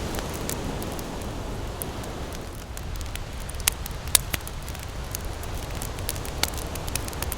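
Wood campfire crackling with scattered sharp pops, the loudest a little past halfway, over a steady low rush of ocean surf.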